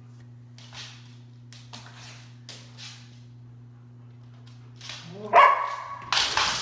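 German shepherd barking loudly near the end, after a few soft scuffs, with a steady low hum behind.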